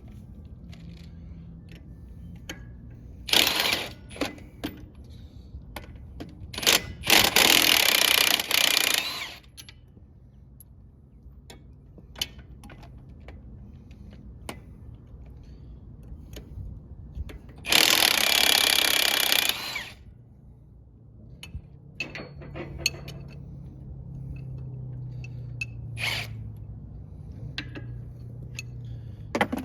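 Impact wrench running in short bursts, three times, loosening fasteners, with the metal clinks of hand tools in between.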